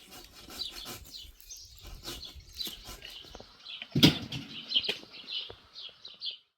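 Small birds chirping repeatedly, with scattered knocks and one louder thump about four seconds in; the sound cuts off just before the end.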